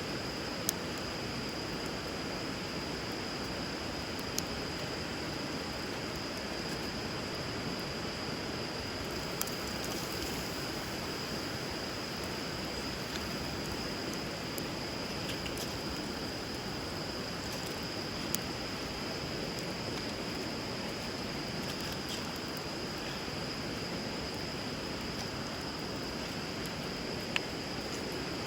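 Wood fire crackling, with a few sharp pops spread through, over the steady rush of river water. A steady high insect trill runs underneath.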